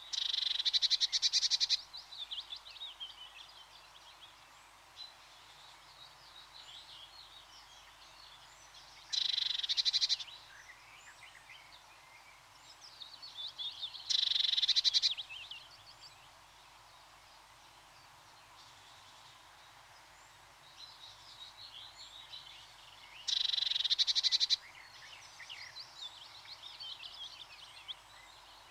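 Tits calling: four loud, fast rattling calls, each about a second and a half long and several seconds apart, among many softer short chirps.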